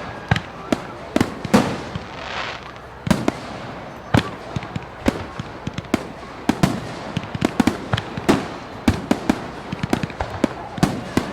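Fireworks going off in an irregular string of sharp bangs and crackles, several a second at times, with a hissing burst about two seconds in.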